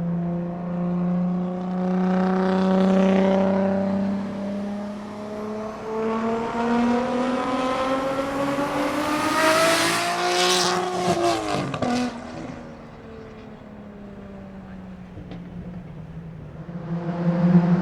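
Nissan Skyline R32 GT-R's single-turbo RB26 straight-six through a 3.5-inch titanium straight-pipe exhaust, driving on the road. The engine note climbs steadily for several seconds, then drops sharply about eleven seconds in with a crackly burst and fades away, before coming back loud near the end.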